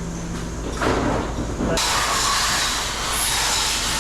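A short scraping noise about a second in, then a loud, steady hiss that starts just under two seconds in and keeps going.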